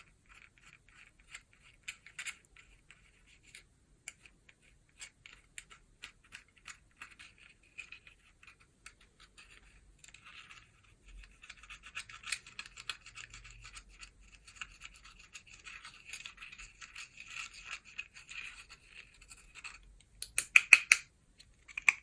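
Slime being mixed and squeezed by hand, giving quick sticky clicks and crackles. They come sparsely at first, thicken about halfway through, and end in a louder flurry of clicks near the end.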